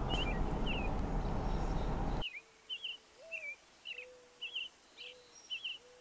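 Small birds chirping in short, repeated twittering notes over a steady rushing noise. The rushing cuts off suddenly a little over two seconds in, and the chirps carry on alone with a faint, low whistling note.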